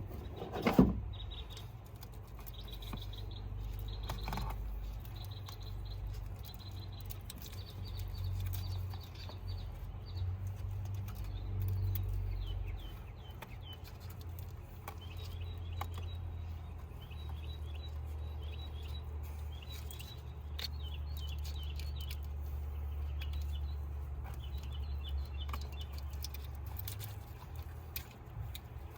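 Small birds chirping in runs of quick short high notes over a steady low rumble, with one sharp knock about a second in.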